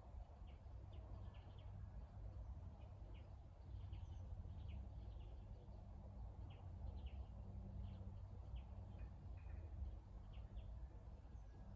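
Faint birdsong: scattered short chirps from small birds over a low, steady rumble.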